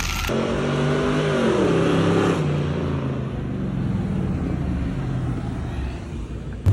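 A car engine revs down, its pitch falling between about one and two seconds in, then runs steadily at a lower pitch.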